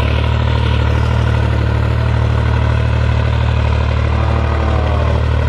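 John Deere tractor engine running steadily with a loud, even low drone while the tractor works with its implement lowered into the ground.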